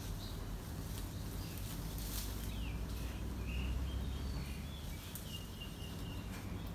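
Birds calling outdoors: a short falling whistle, then several brief high chirps and one longer held note in the second half, over a steady low rumble and a few scattered clicks.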